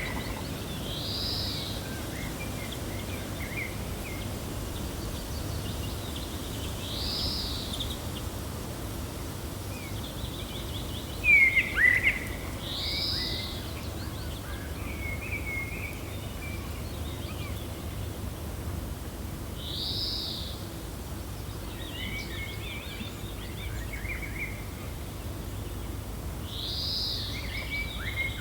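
Birds calling over a steady, gentle wind. A short, high, arched call repeats about every six to seven seconds among scattered chirps, and about eleven seconds in a louder call sweeps sharply downward.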